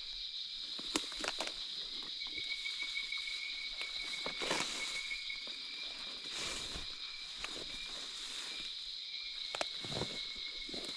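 Night insects chirring in a steady high drone, with a second, lower rapid trill running through most of it. Footsteps and rustling come through a few times, most clearly near the middle and near the end.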